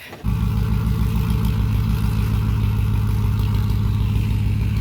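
Buick Century's 3.1-litre V6 idling steadily, cutting in abruptly about a quarter second in.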